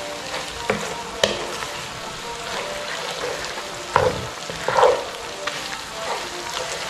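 Sliced pork stomach and kidney sizzling in sauce in a frying pan, stirred with a wooden spatula. A few louder scrapes and knocks of the spatula against the pan come about a second in and again around four and five seconds in.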